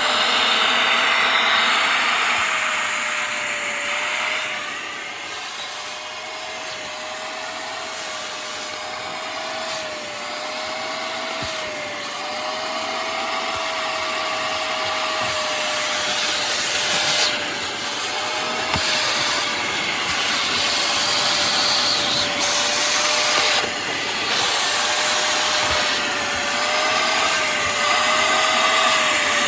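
Hoover CleanSlate Plus portable carpet spot cleaner's suction motor running, a steady hum with a slightly wavering pitch over a rush of air. The rush drops in level about five seconds in, then slowly builds back up.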